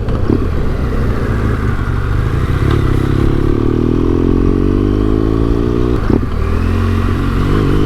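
BMW R1200GS boxer-twin engine through an SC Project exhaust, heard from the rider's seat while riding. The engine note climbs steadily as the bike accelerates, breaks briefly about six seconds in at a gear change, and then climbs again.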